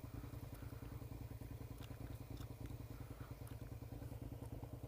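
Motorcycle engine running steadily at low revs, a fast even putter with no revving.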